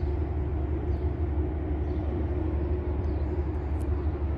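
A train running nearby: a steady low rumble with a constant hum, even throughout.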